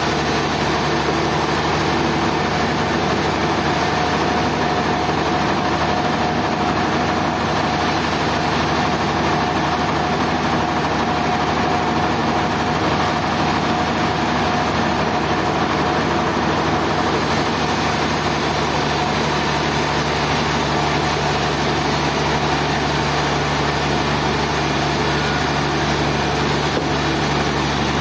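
Sawmill machinery running steadily: a constant engine-like drone with a thin whine over it in the first few seconds.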